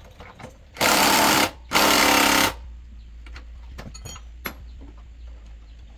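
Two short, loud bursts from a power tool, each under a second, with a brief pause between them, and a few light metal clicks around them.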